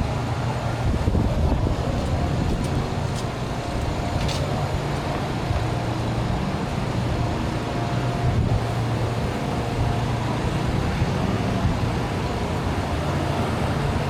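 Downtown street traffic: a steady low rumble of vehicle engines running.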